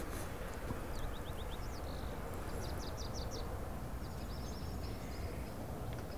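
Small birds chirping in three short runs of quick high chirps over a steady low background noise.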